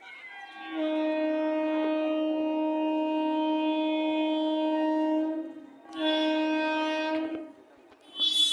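Train horn sounding in blasts: a long one of about five seconds, a shorter one of about a second and a half, then a brief third one near the end.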